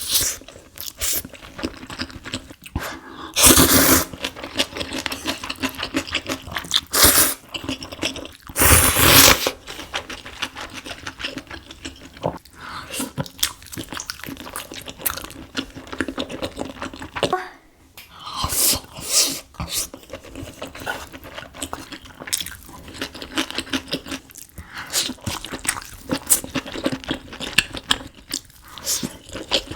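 Close-miked eating sounds of a person eating seafood: chewing and crunching with wet mouth clicks. Two louder noisy bursts come about four seconds and nine seconds in.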